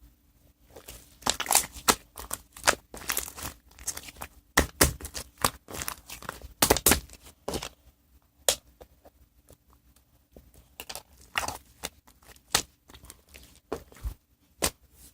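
Irregular sharp crackles and clicks, thickest in the first half and thinning out toward the end.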